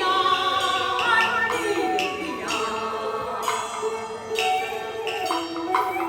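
Beiguan opera music in the Fulu style: a wavering melodic line, sung or played, over occasional struck percussion strokes.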